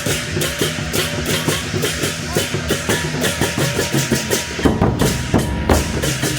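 Percussion music led by drums, beating a fast, even rhythm of sharp strikes, typical of a Taiwanese temple-procession troupe.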